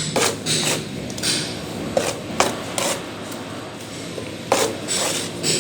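Steel plastering trowel working cement plaster onto a wall: a series of short scraping and slapping strokes, irregularly spaced, with a longer scrape near the end.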